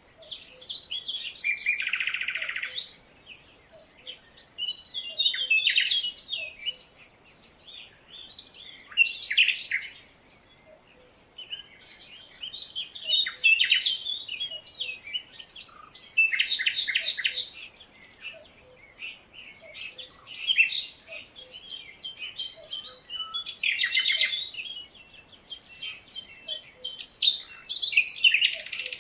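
Several birds chirping and singing in a jungle, in overlapping bursts of quick notes every second or two with short quieter gaps between.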